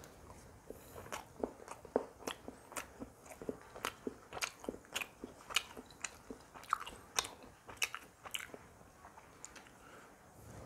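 Close-miked chewing of chilli chicken and roti: irregular wet mouth smacks and clicks, two or three a second.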